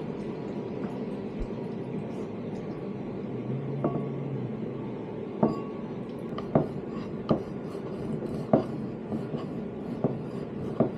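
Kitchen utensils and cookware knocking and clinking against pots and dishes, a few sharp knocks spread through the second half, over a steady background noise.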